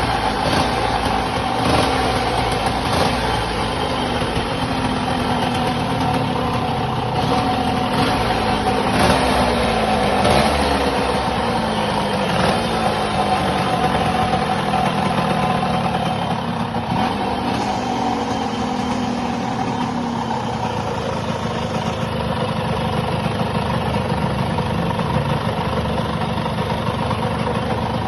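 Yamaha Force 1 motorcycle engine test-running. It is blipped and revved several times in the first half, its note rising and sinking back, then it settles to a steady idle.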